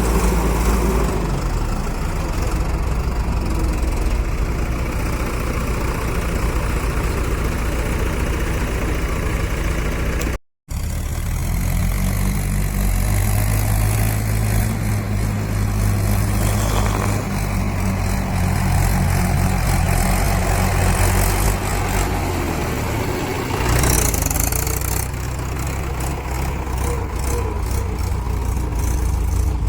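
Heavy diesel engines running steadily, cut off by a brief dropout about ten seconds in.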